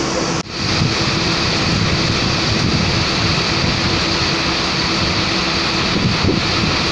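Steady running of a train's engine, a dense low rumble that continues without change. About half a second in there is a brief dropout in the sound.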